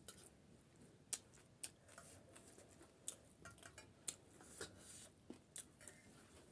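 Faint, irregular crunching and clicking of close-up eating, as crisp panipuri and chatpate are bitten and chewed, with scattered sharp crackles about two a second.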